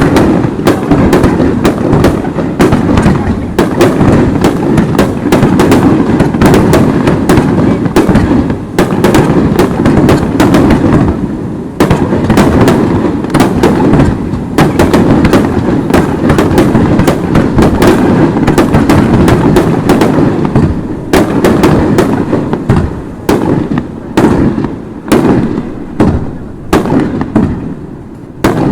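Aerial fireworks bursting in a dense, unbroken barrage: rapid overlapping cracks and booms over a constant low rumble. The bursts thin out into more separate bangs over the last few seconds.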